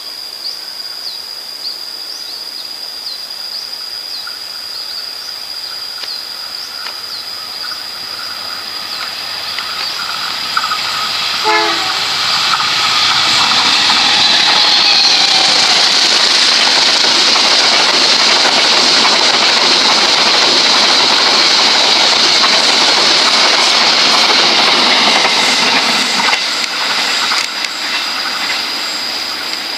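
A diesel locomotive and its string of passenger coaches pass close by at speed. The rumble and wheel-on-rail noise build from about a third of the way in and are loudest through the middle as the locomotive and coaches go past. The wheels clatter over the rail joints near the end as the last coach draws away.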